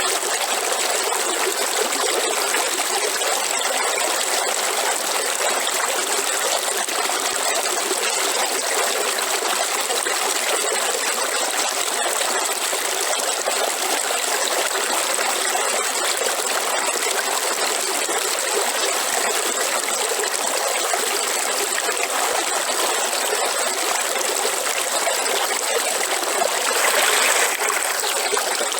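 Small river or stream flowing steadily over rocks, a continuous rushing and trickling of water, slightly louder for a moment near the end.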